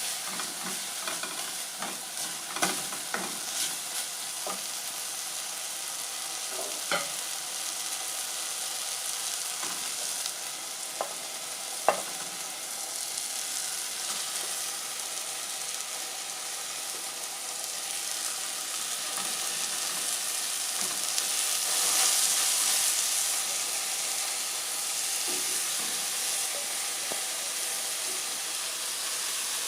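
Cabbage frying in a hot pan, a steady sizzle, with a few sharp clicks of a utensil against the pan in the first twelve seconds. The sizzle swells louder about twenty-two seconds in.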